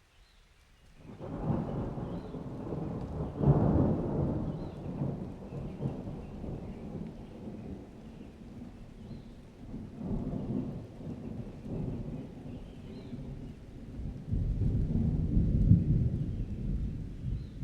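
Rolling thunder rumbling low in a rainstorm. It starts about a second in, peaks soon after, fades and swells again, and grows louder near the end.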